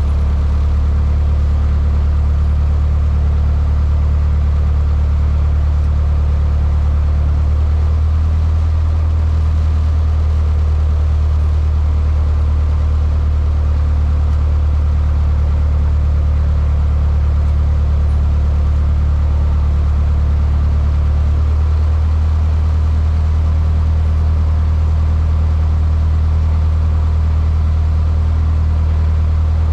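Cessna 152's four-cylinder Lycoming engine and propeller droning steadily, heard from inside the cockpit, with small shifts in the engine note partway through.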